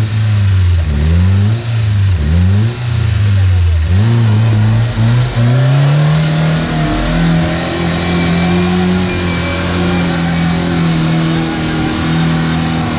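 Off-road vehicle engine revved hard in repeated surges, its pitch rising and falling several times, then held at a steady high revs for the rest of the time. It is working under load to drive a stuck vehicle out on traction boards.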